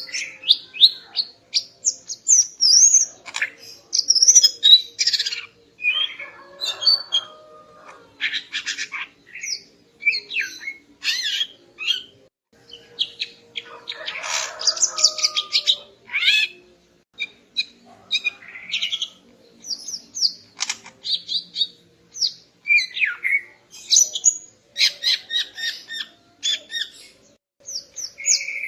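Female cucak ijo (green leafbird) singing: a rapid, varied stream of high chirps and whistled slurs with brief pauses between phrases.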